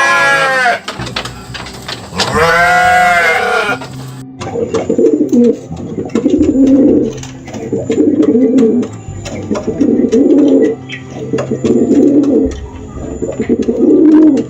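An animal bleats once, its pitch falling. Then a bird coos in about six low phrases, each about a second long, spaced evenly.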